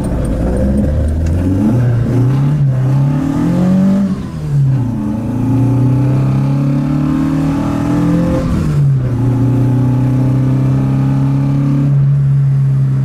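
Alfa Romeo GT 1600 Junior's twin-cam four-cylinder engine pulling away, heard from inside the cabin. The revs climb, drop at a gear change about four seconds in, climb again, and fall at a second upshift about nine seconds in. After that the engine holds a steady cruise.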